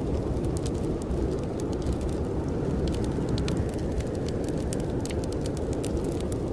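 Blizzard wind blowing steadily outside, a dense low rush, over the frequent sharp crackles of a burning wood fire.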